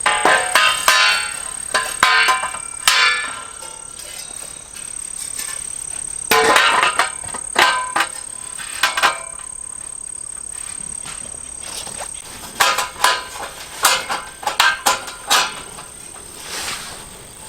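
Hard objects clinking and clattering in several bursts, each strike leaving a short ringing tone, typical of metal gear being handled. Under it runs a steady high insect trill.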